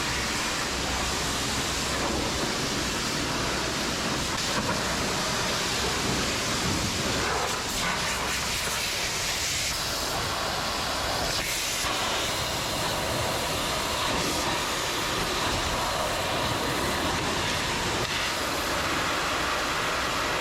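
High-pressure water spray from a wash wand hitting a truck's body, a steady hiss that shifts in tone as the jet is moved.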